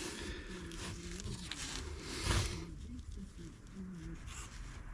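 A man's low wordless voice, humming or muttering under his breath, with a brief louder rustle a little over two seconds in.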